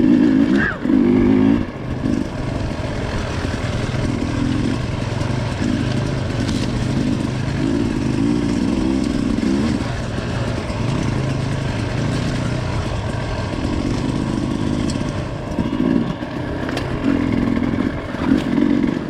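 Off-road motorcycle engine running under way on a trail, its note swelling and easing every few seconds as the throttle is worked.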